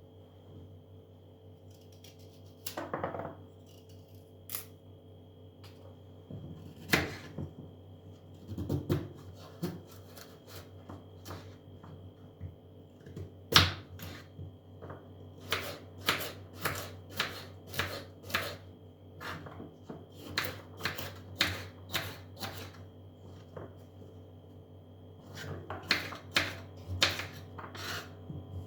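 A knife chopping on a cutting board in runs of quick, even strokes at about two a second, with a few scattered knocks of kitchen utensils before it, over a faint steady hum.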